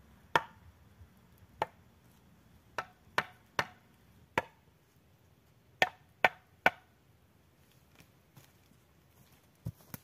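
Wood being chopped: about nine sharp hits at uneven intervals, some coming in quick runs of two or three.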